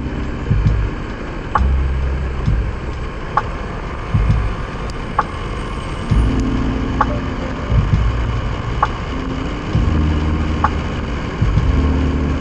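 KTM Duke 390's single-cylinder engine running at low speed, its pitch stepping up and down, over steady wind and road noise. A short high tick repeats evenly about every two seconds.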